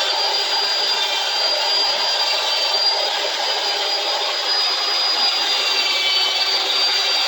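Handheld electric drill running steadily with a constant high whine while scrubbing old tape and grime off a metal bar clamp.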